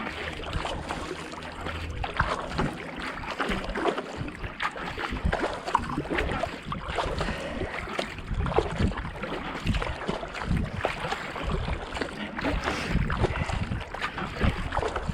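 Kayak paddle strokes: the blades dipping and splashing into the canal water one after another in a steady rhythm, at about 70 to 80 strokes a minute.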